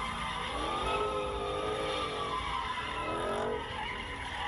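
Car engine revving up and down twice, with tires squealing, as a car slides or does a burnout.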